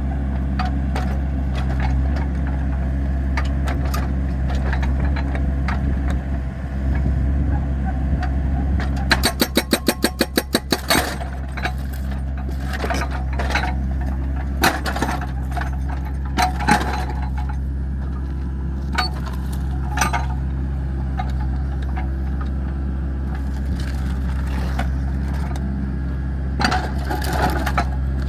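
Excavator's diesel engine running steadily, with scattered sharp knocks and cracks of the machine working the firewood. About nine seconds in comes a quick run of a dozen or so evenly spaced knocks.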